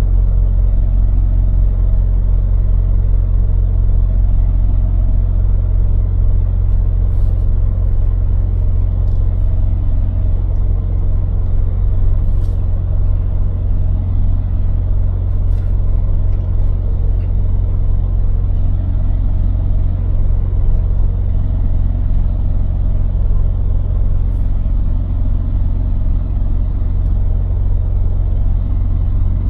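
Scania lorry driving: a steady, low engine and road rumble with no change in pace, and a few faint ticks scattered through it.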